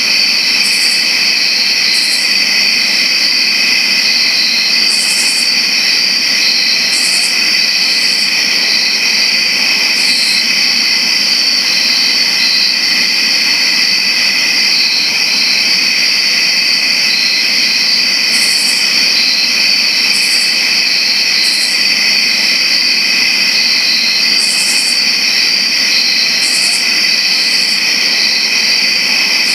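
Dense chorus of crickets chirping: a loud, steady, high-pitched trill, with short higher-pitched calls breaking in every second or so.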